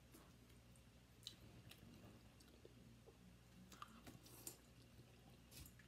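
Faint chewing and soft wet mouth sounds of people eating chili fries, with a few scattered soft clicks over a low steady hum.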